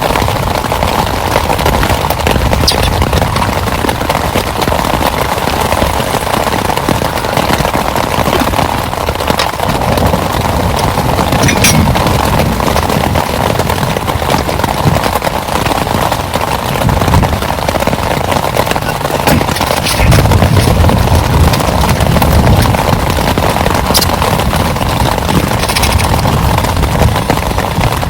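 Heavy rain falling steadily in a loud, even hiss with scattered sharp drips. A deeper low rumble swells about two-thirds of the way through.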